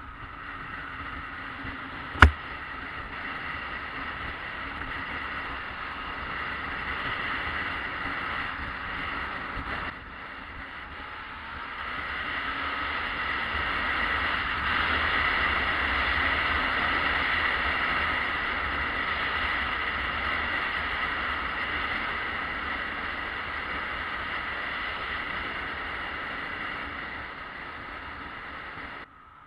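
Yamaha XJ600S Diversion motorcycle being ridden at a steady pace: its air-cooled inline-four engine mixed with wind noise on the onboard microphone, with a sharp click about two seconds in. The sound gets louder from about twelve seconds in.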